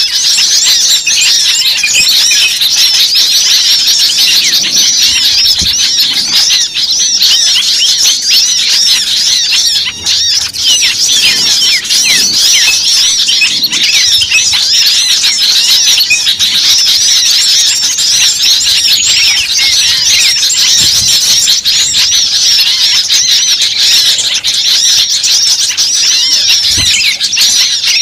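Dense, continuous chorus of many small birds giving rapid, high-pitched overlapping chirps and squeaky calls. It is a bird-lure recording of agitated, noisy small birds, such as sunbirds, used to draw other birds in.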